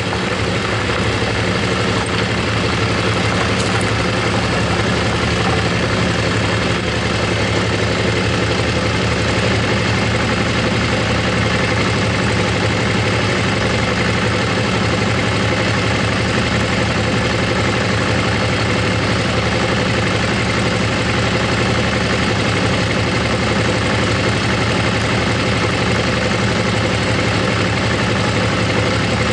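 Motorcycle engine running at steady, unchanging revs, with a constant rushing noise over it.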